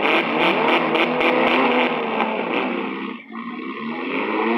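Engines of four- and six-cylinder demolition derby cars running and revving together, their pitch rising and falling. A rapid clatter of about five hits a second runs through the first two seconds. The sound drops away briefly about three seconds in, then the revving rises again.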